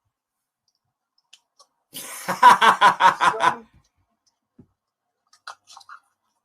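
A person's voice in one short burst of quick repeated pulses, about a second and a half long, with a few faint clicks around it.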